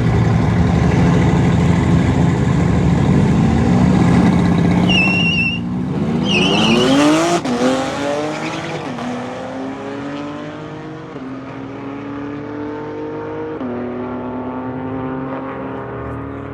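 High-performance car launching down a drag strip, tyres squealing briefly about five to seven seconds in. The engine revs up hard and then pulls away through the gears, its note climbing and dropping back at each of three or four upshifts as it fades.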